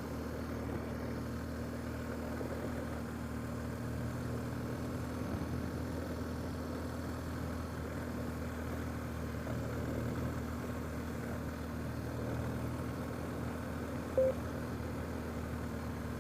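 Vehicle engine running steadily in low gear, with road rumble from a rough dirt road. A short beep sounds about 14 seconds in.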